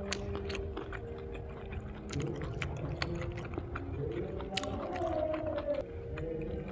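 Close mouth sounds of fried kimbap being chewed, with small clicks throughout. Faint karaoke singing drifts in underneath, its melody rising and falling about two thirds of the way through.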